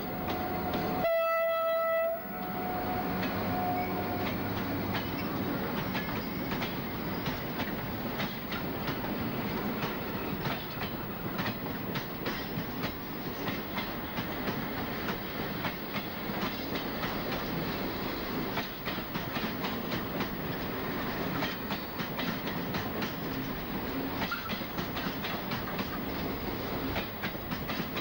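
A single horn blast from a RENFE class 276 electric locomotive, about a second long and starting about a second in. Then the train's container wagons roll past steadily, with a fast clatter of wheels over rail joints.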